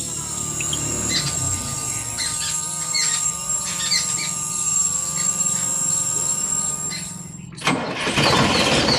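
A small motor running steadily with a wavering squeal over it and birds chirping. About a second and a half before the end this gives way to a loud, even hiss.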